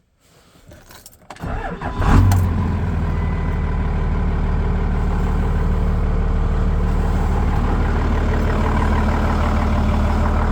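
1999 Dodge Ram 2500's engine cold-starting: a short crank, catching about two seconds in, then settling into a steady idle.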